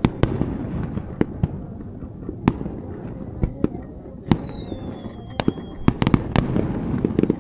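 Aerial fireworks bursting: sharp bangs at irregular intervals, with a thin whistle falling in pitch from about four to six seconds in, then a quick run of bangs close together near the end.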